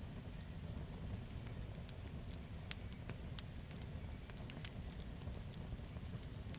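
Wood campfire crackling: sharp, irregular pops over the steady low rush of the flames.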